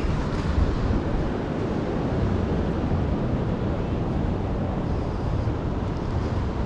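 Steady low wind rumble on a GoPro Hero 9's microphone as the bicycle rolls along.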